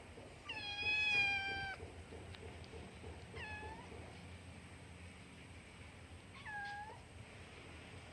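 Domestic cat meowing three times: one long meow about half a second in, then two shorter meows a few seconds apart.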